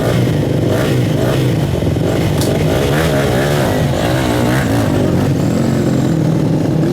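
Enduro motorcycle engine running loudly and revving, its pitch rising and falling.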